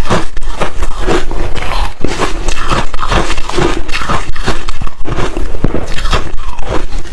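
Close-up chewing of crushed, refrozen ice chips: a continuous, loud run of crunching and crackling bites.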